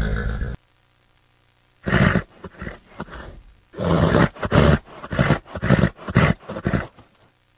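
Horse vocalising: a short loud blast at the start, then after a pause a run of loud pulsed calls, several a second, that stops about seven seconds in.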